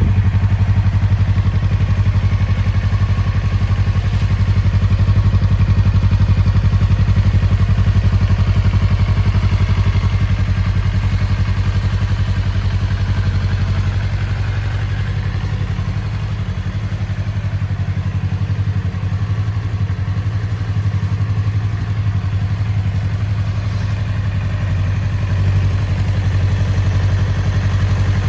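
Yamaha YZF-R25's 249 cc parallel-twin engine running steadily at low revs, an even exhaust beat.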